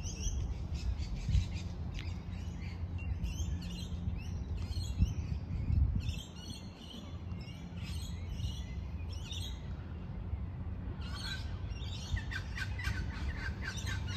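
Several small birds chirping and singing in short repeated phrases, busiest near the end, over a low steady rumble.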